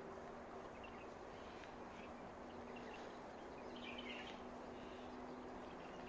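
Faint background ambience: an even hush with a few short bird chirps, a small cluster of them about four seconds in, over a low steady hum.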